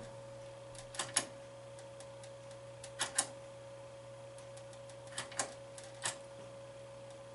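Pinball machine's game button being clicked: three quick pairs of sharp clicks about two seconds apart and a last single click, over a steady electrical hum from the machine.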